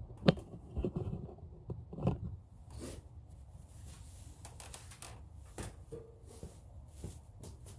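Handling noise: scattered clicks, taps and rustles of hands working close by, with one sharp click about a third of a second in and a few more spread through the rest.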